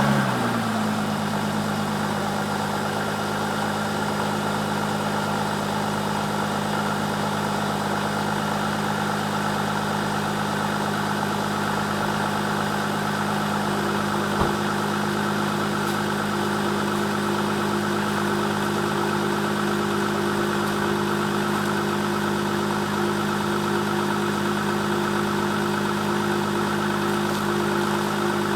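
Audi A6 TDI's 3.0-litre V6 diesel just after a cold start at 16 °F, its start-up flare settling within the first second into a steady cold idle. About halfway through, a further steady higher tone joins the idle, and there is a single short click.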